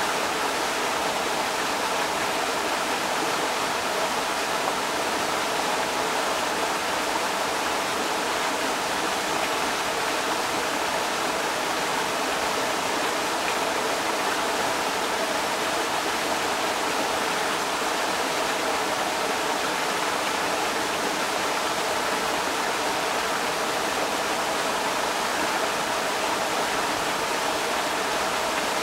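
Creek water rushing over rocks, a steady, even rush that does not change.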